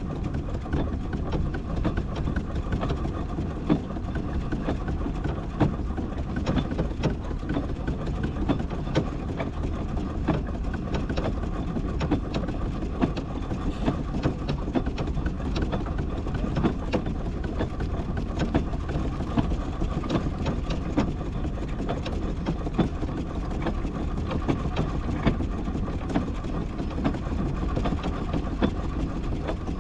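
Miniature steam traction engine crawling along in bottom gear: steady running with frequent irregular clanks and knocks.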